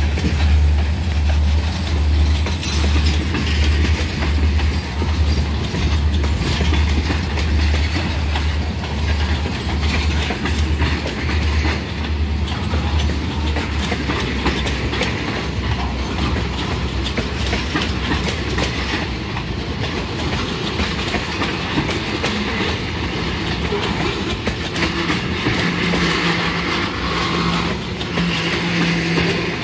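Freight train of loaded tank cars rolling past, steel wheels clicking over the rail joints with a steady rumble. A heavy low rumble pulses in the first half and eases off about halfway through.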